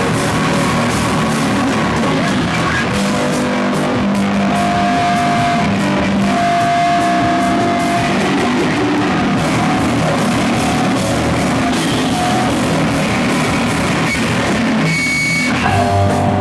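A live slowcore/noise rock band plays a dense wall of distorted electric guitar over drums, with long held notes. About a second before the end the sound thins briefly, then a heavier passage with a strong low end comes in.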